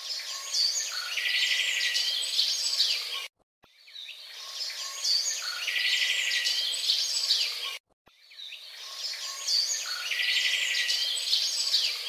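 Birdsong sound effect: several birds chirping, with a fast trill in the middle. The same four-second recording plays three times in a row, with a short break between each.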